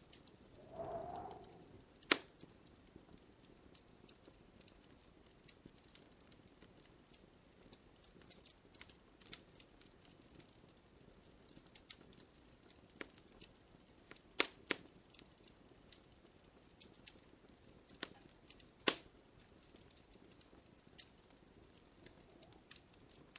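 Wood fire burning in a fireplace: soft, irregular crackling with a handful of sharper pops, the loudest about two seconds in and a cluster around fourteen to nineteen seconds in. A brief soft swell of sound comes about a second in.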